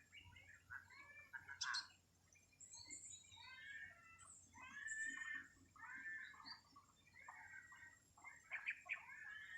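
Faint birdsong: a run of short, chirping phrases, one after another with brief gaps.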